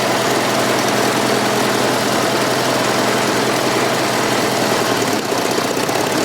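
Fordson Super Major backhoe's 3.6-litre diesel engine running steadily with a rough, knocking note. It is probably running on three cylinders, as the number 4 injector has no compression.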